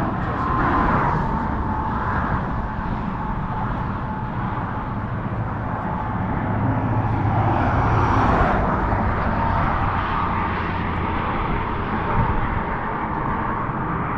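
Steady outdoor rumble of passing traffic, swelling briefly about eight seconds in.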